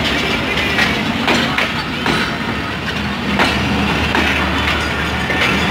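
Passenger coaches rolling past close by with a steady rumble, their wheels clicking irregularly over the rail joints.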